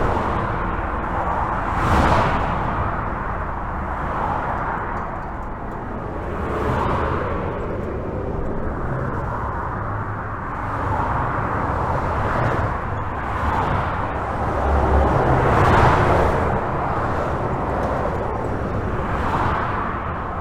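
Continuous highway traffic heard from beneath a bridge: a steady rush of tyre and engine noise, with individual vehicles swelling past every few seconds, the loudest about two seconds in and near the end.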